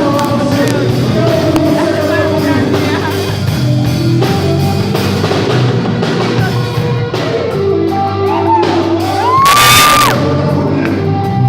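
Live music with a steady bass line and singing, with crowd shouts and whoops; a loud whoop about nine and a half seconds in.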